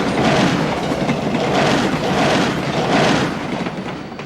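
A train rolling past close by: a loud rumbling clatter of wheels on the rails that swells and ebbs unevenly, then eases off near the end.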